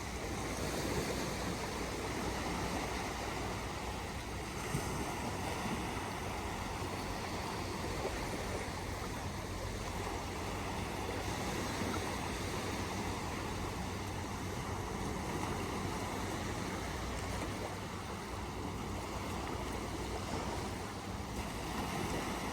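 Steady rushing noise of outdoor ambience with no distinct events.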